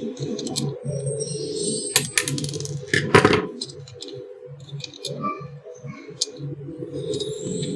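Sharp clicks and clatter of small metal and plastic parts being handled while an electric iron is reassembled, loudest in a cluster about three seconds in, over a steady hum.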